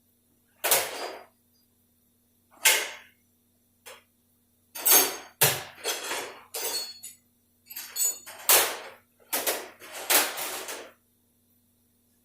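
A string of short metallic clanks and clatters from tools and transmission parts being handled and set down during a teardown, sparse at first and coming thick and fast in the middle.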